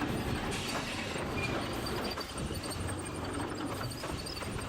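Log debarking machinery running, with logs knocking and rattling against steel rollers and drums in a steady clatter.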